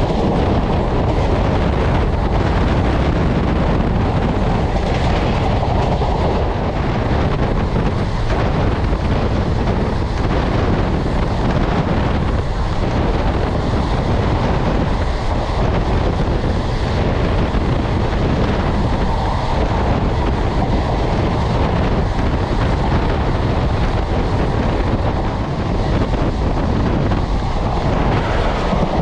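Indian Railways ICF passenger coach running at speed: a steady, loud rumble of wheels on rail, with wind noise.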